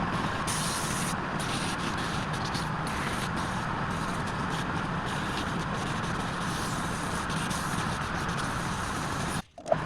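Wood lathe running with a tool held against the spinning wood, a steady scraping noise over the motor's hum, broken by a sudden cut near the end.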